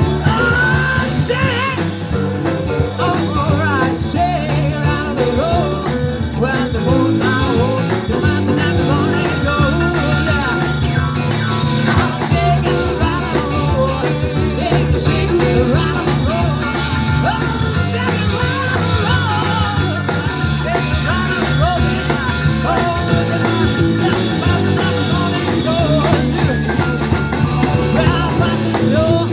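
Live rock and roll band playing an instrumental break: drums keep a steady beat under bass and a lead line with bending, held notes.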